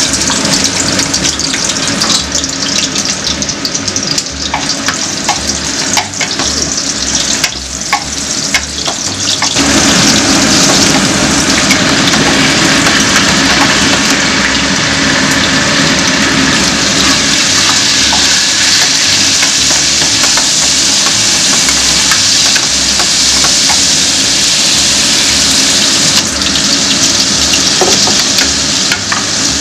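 Fresh ginger and onion slices sizzling in hot oil in a nonstick pan, stirred with a wooden spatula, with a few sharp taps of the spatula. The sizzle grows louder about ten seconds in and stays loud.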